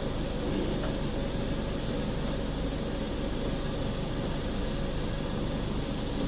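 Steady low hum and hiss of background machinery noise in a factory, unchanging throughout.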